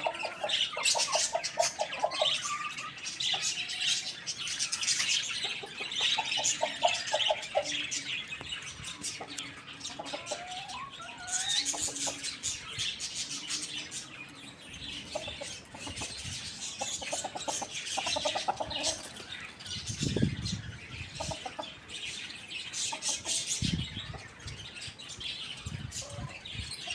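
Chickens clucking in short rapid runs, with small birds chirping throughout and two low thumps near the end.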